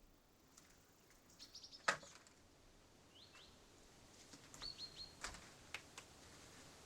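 Small birds chirping: short high notes in quick runs, with a few sharp clicks between them, the loudest about two seconds in.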